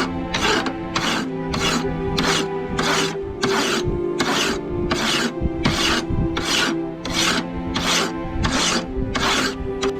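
Hand file or rasp worked in even strokes, about two a second, with steady background music underneath.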